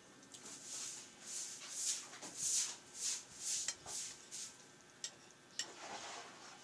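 Close-up eating sounds: wet chewing and mouth noises in a run of short bursts about two a second. After that come a couple of sharp clicks, likely a spoon touching a plate.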